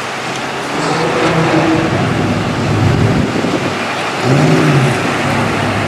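Truck engines running and revving, with one rev rising and falling in pitch about four seconds in.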